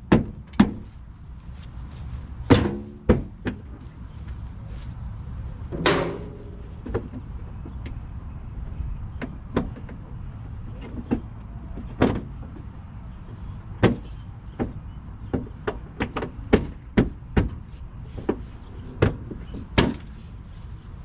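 Irregular clicks, taps and knocks of plastic and metal parts being handled as a Honda bumper cover is fitted back in place, with a couple of short creaks, over a steady low rumble.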